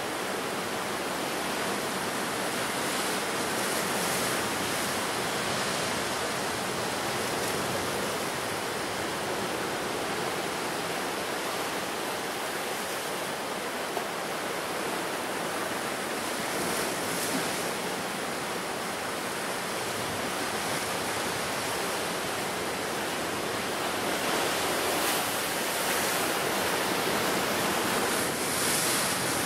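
Ocean surf breaking on a rocky coast, a steady wash of waves with a few swells that rise and fall.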